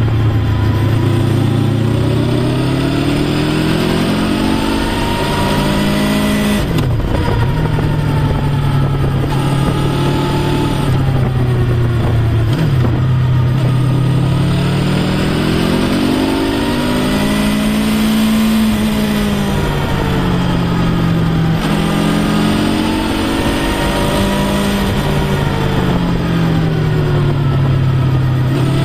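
Honda VFR800X Crossrunner's V4 engine under way, its pitch rising and falling over and over as the throttle is opened out of bends and rolled off into the next, with two sudden dips about seven and thirteen seconds in. A steady rush of wind noise runs under it.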